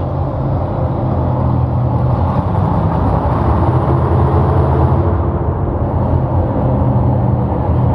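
Heavy engine of a pulling vehicle running loud and steady under power, with a deep even drone.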